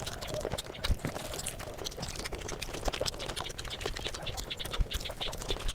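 Eating sounds played at about five times speed: chewing and mouth smacks run together into a dense, quick patter of small wet clicks.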